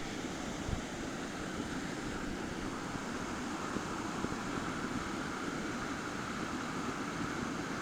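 Steady rush of falling water from a waterfall, an even roar with no break.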